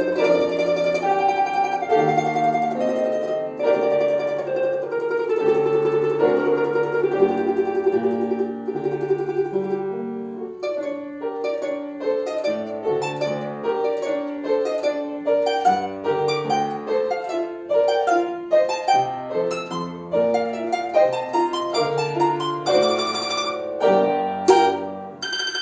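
A balalaika plays a Russian folk melody in sustained tremolo over lower accompanying notes. About ten seconds in, it switches to quick, separately plucked notes.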